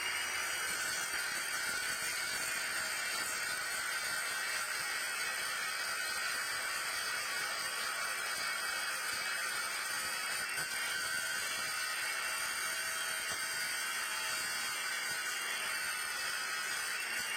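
A steady, unbroken hiss that holds the same level throughout.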